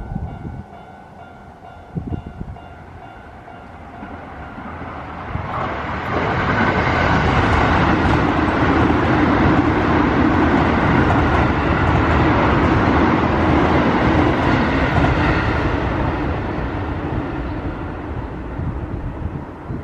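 Keio Line electric train passing over a level crossing. Its noise builds from about five seconds in, stays loud for about ten seconds, then fades away. The crossing's warning bell rings steadily beneath it.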